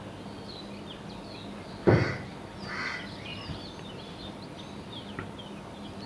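Bird sounds over a steady ambient hiss: one loud, rough call about two seconds in, a fainter call just after, and faint high chirping of small birds scattered through.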